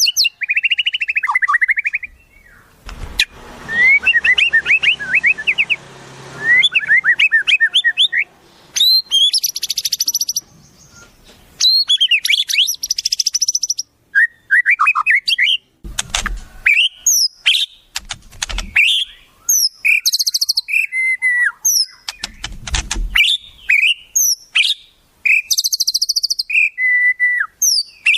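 Wild songbirds calling in quick succession: varied whistles, chirps, glides and fast trills, with a few short low thumps in between.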